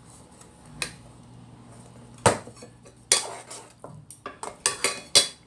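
Cutlery clinking and scraping against dishes during a meal: a string of sharp clinks, the loudest about two seconds in and a quick run of them near the end.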